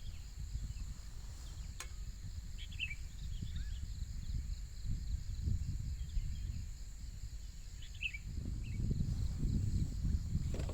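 Outdoor ambience of insects droning steadily in a high, pulsing trill, with a few brief bird chirps. Underneath is a low rumble that grows louder near the end.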